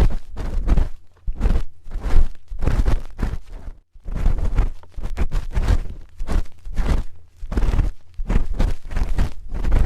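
A spoon scraping and rubbing against an ASMR ear microphone in rapid, irregular strokes, each with a heavy low rumble from contact with the mic, broken by short pauses about one, four and eight seconds in.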